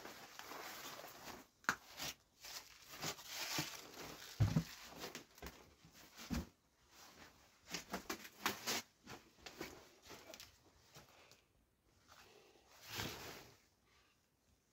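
Irregular rustling and crunching of footsteps through dry undergrowth, with uneven short crackles and scrapes.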